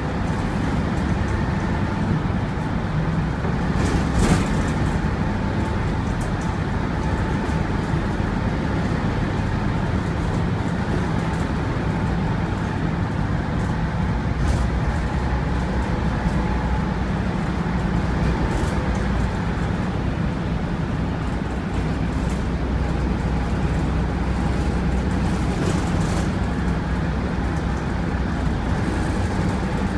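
Volvo B7TL double-decker bus's turbocharged six-cylinder diesel engine running steadily on the move, with a faint turbo whistle that comes and goes. A few brief knocks or rattles, the loudest about four seconds in.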